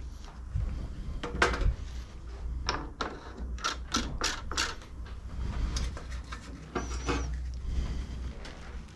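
Irregular sharp clicks and clinks of tools and metal parts being handled on a lawn mower's self-propelled drive, over a low steady hum.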